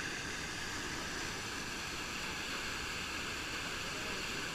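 Steady rushing of whitewater rapids, an even hiss with no distinct splashes or breaks.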